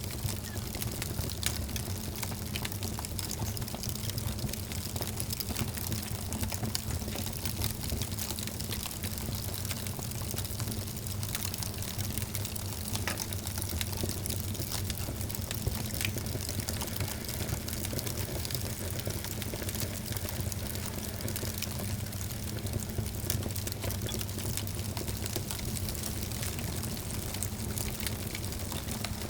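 Wood fire burning in a fireplace, crackling steadily with many small irregular pops over a low, even rumble of flame.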